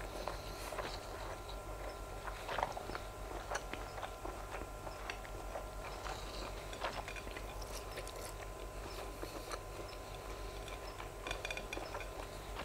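A person chewing a mouthful of grilled sausage close to the microphone: irregular wet mouth clicks and smacks, over a low steady hum.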